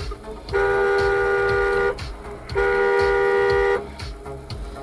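Car horn sounding two long, steady blasts, each about a second and a half, with a short gap between them.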